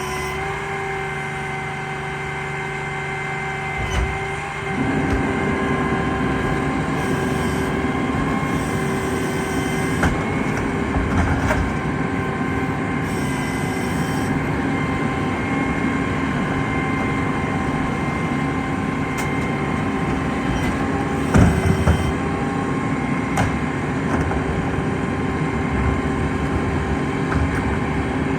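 Garbage truck's diesel engine running steadily, then rising to a higher, louder speed about five seconds in and holding there, with a few knocks and clanks along the way.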